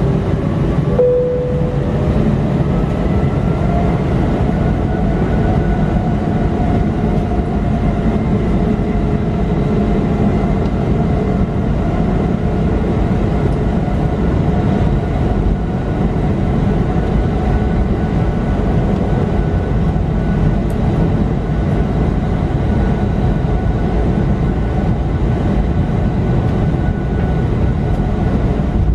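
Airbus A320 jet engines heard from inside the cabin: a heavy, steady rumble with whines that rise in pitch over the first few seconds and then hold, as at the take-off roll.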